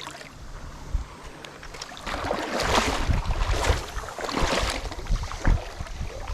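Kayak paddle strokes swishing and splashing in the river, a run of several strokes starting about two seconds in, with low thumps of wind on the microphone.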